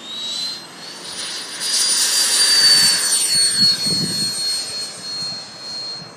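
Electric ducted-fan motor of an E-flite F-4 Phantom model jet whining at high pitch, settling to a steady tone after a short climb, with a rush of air that grows loudest about two to three seconds in. Low wind buffets hit the microphone around four seconds in.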